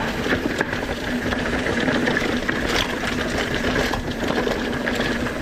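Mountain bike riding noise as it coasts down a dirt trail: a steady mechanical buzz from the bike, under tyre rumble and wind on the helmet microphone.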